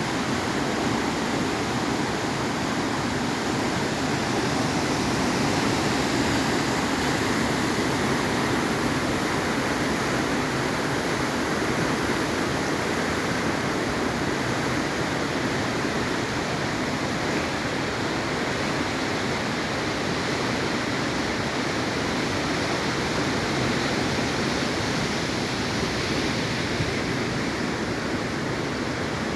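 Floodwater rushing in a steady, unbroken wash of noise.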